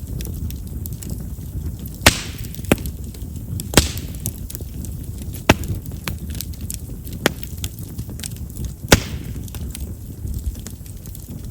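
Chestnut-wood bonfire burning with a steady low rumble of flame, light crackling and sharp single pops, the loudest about two, four, five and a half and nine seconds in. Chestnut's large wood pores make it a firewood known for popping.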